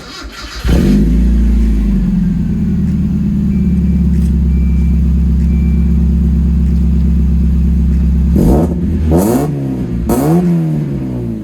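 1992 Mazda Miata's 1.6-litre four-cylinder engine cranked over and catching within a second through a newly fitted ISR exhaust. It flares up, settles to a steady idle, and is then revved a few times near the end, the pitch rising and falling with each rev.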